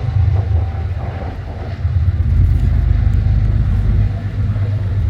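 Freight train passing: a loud, steady low rumble.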